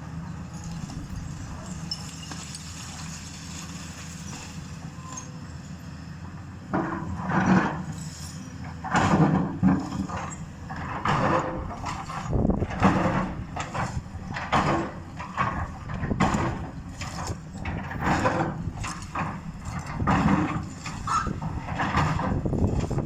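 House demolition: a steady low rumble, then from about seven seconds in, repeated irregular crashes and crunching of walls and debris coming down.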